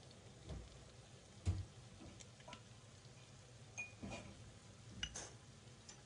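Scattered light clinks and taps of kitchen utensils against dishes, some with a short ringing note, and a duller knock about one and a half seconds in.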